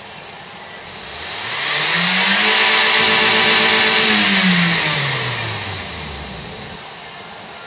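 Toyota 1NZ-FE 1.5-litre four-cylinder engine revved once from idle: the revs rise about a second in, hold for a couple of seconds, then fall back to idle.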